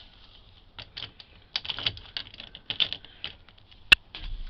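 Keys jangling and clicking as the truck's ignition key is handled, with one sharp click a little before the end.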